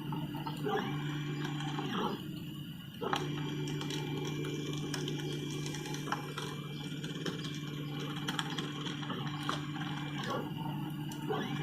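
3D printer's stepper motors whining in steady tones as the print head moves, each move ramping up at the start and down at the end. A short move at the start, a long one from about three seconds in lasting some seven seconds, and another short one near the end.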